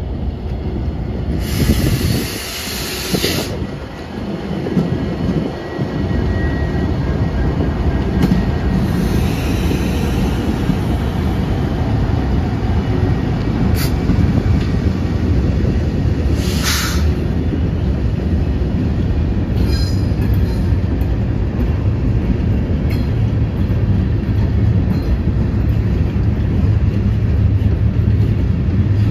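Norfolk Southern diesel freight locomotive rumbling past, then a string of gondola cars rolling by, their wheels clicking over the rail joints. There are a few bursts of hiss near the start and a brief high wheel squeal about twenty seconds in.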